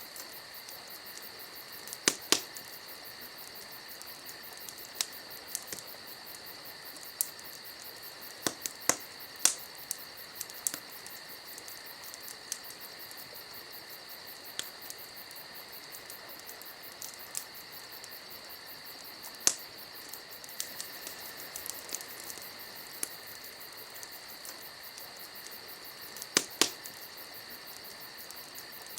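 Wood fire crackling, with sharp irregular pops scattered through it, the loudest a few seconds apart, over a steady high-pitched drone.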